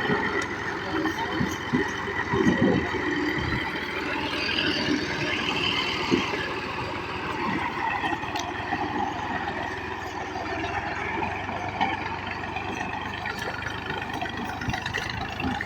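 Tractor engine running steadily, with voices in the background.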